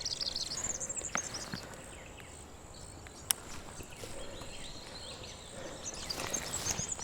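Small birds twittering and chirping, busiest in the first second and again near the end, with a single sharp click about three seconds in.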